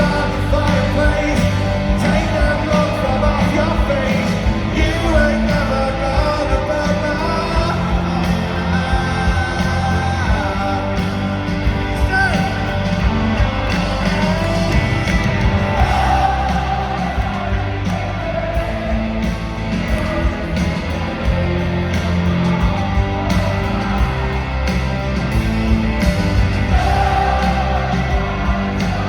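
Live rock band playing a song with a lead vocal, loud and steady, with voices yelling and whooping along.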